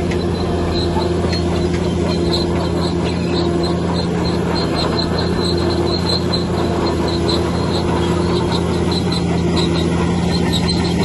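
Heavy diesel earthmoving machine running steadily under load, with a rapid run of high-pitched squeaks throughout.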